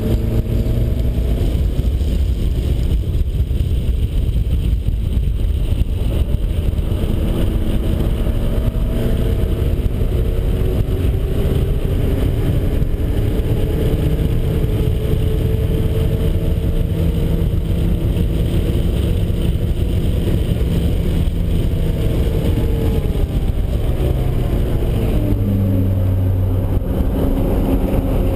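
Turbocharged 1.9-litre four-cylinder engine of a Miata running hard on track, its revs rising and falling repeatedly.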